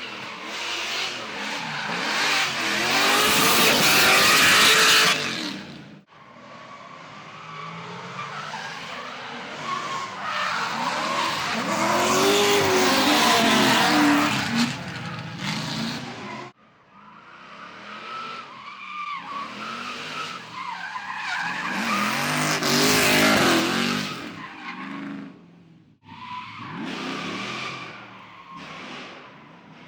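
Drift cars sliding past, engines revving up and down on and off the throttle with tyres squealing and skidding, each pass building to a loud peak. The sound breaks off abruptly three times where one pass gives way to the next.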